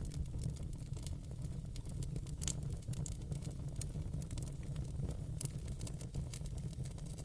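Wood fire in a fireplace burning steadily: a low rumble of flame with frequent small crackles and pops, a few sharper snaps among them.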